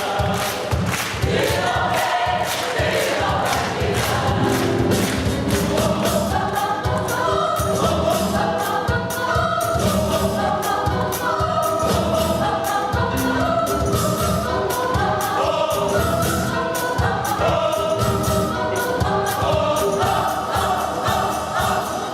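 Gospel choir singing a song in parts over a steady beat.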